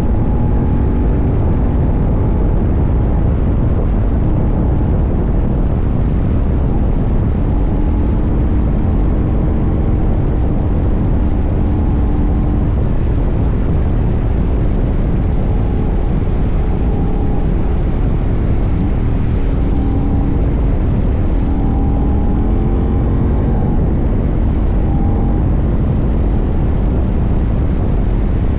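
CFMoto 800NK's parallel-twin engine running under way, its pitch drifting a little with the throttle, under heavy wind rush on a tank-mounted microphone.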